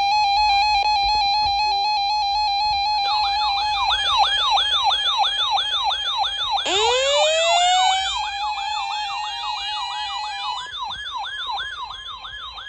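Emergency alert tone wavering near one pitch, joined about three seconds in by an electronic siren sweeping up and down about twice a second, and a few seconds later by a siren winding up from low to high pitch. The alert tone stops a couple of seconds before the end, and the sirens grow quieter.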